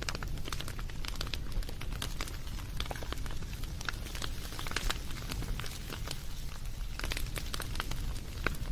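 Wood fire crackling and popping: irregular sharp snaps over a steady low rumble of flames.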